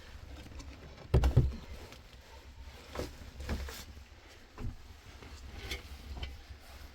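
Irregular knocks and thumps, the loudest a close pair about a second in, followed by a few softer ones.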